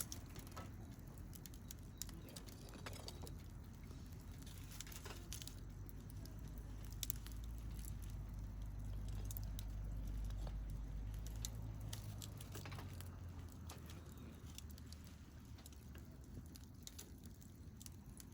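Wood campfire crackling, with scattered sharp pops and ticks over a low rumble that swells through the middle and then eases off.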